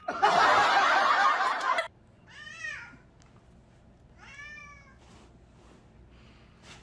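A loud rush of noise lasting nearly two seconds, then a cat meowing twice, each meow rising and then falling in pitch, about two seconds apart.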